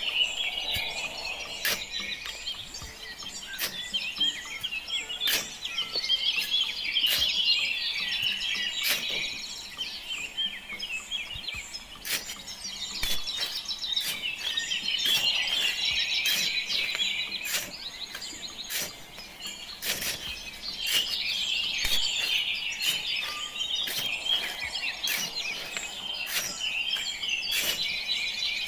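Dense chirping of many small birds, swelling and fading every few seconds, with scattered sharp clicks throughout.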